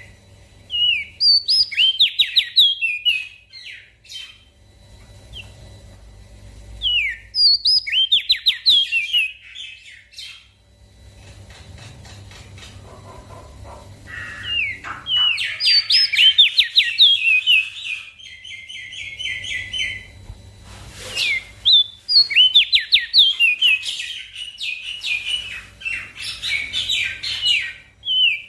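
A small songbird singing phrases of quick, high chirps and trills, repeated with short pauses between them.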